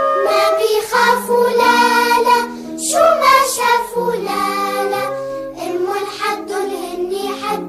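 Arabic children's song: a child's singing voice over an instrumental backing of held notes.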